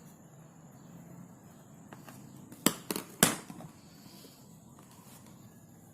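Three sharp clicks or knocks in quick succession about halfway through, over a faint steady background hiss with a thin high whine.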